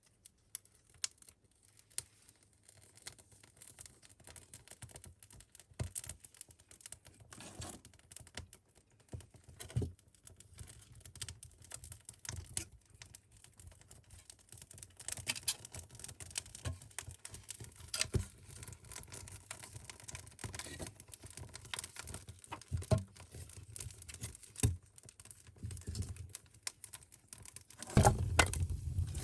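Irregular light clicks and small crackles, with a louder low rumbling noise coming in near the end.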